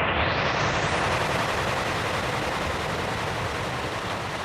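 A wash of static-like hiss with a crackling low end, used as a transition. It opens from dull to bright over the first second, then holds and slowly fades.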